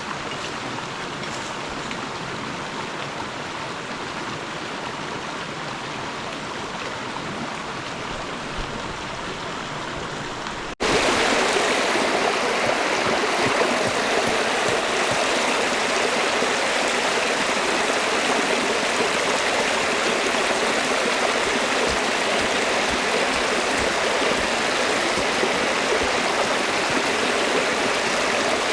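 Flowing river water, a steady rushing. About eleven seconds in it cuts abruptly to a louder, fuller rush.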